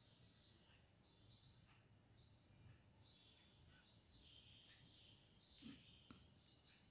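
Faint, repeated short high chirps of a small bird, singly or in pairs about once a second, over near silence. One soft knock about five and a half seconds in.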